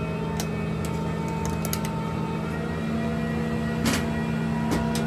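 Steady machinery hum with several held low tones, broken by a few sharp knocks, the loudest about four seconds in.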